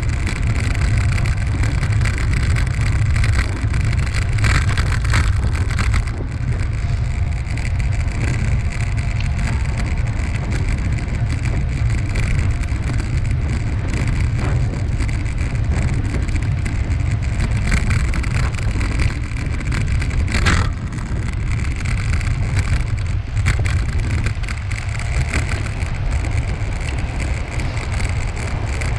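Wind buffeting the microphone of a camera on a moving bike, a steady low rumble, with faint tyre and path noise and light rattles over it.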